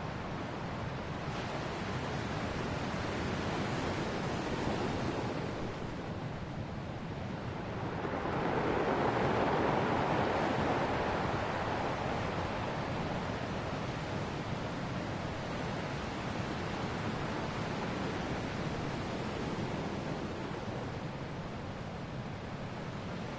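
Ocean waves breaking and washing on a shore in a continuous rush of surf that swells and eases slowly, one wave loudest about nine seconds in.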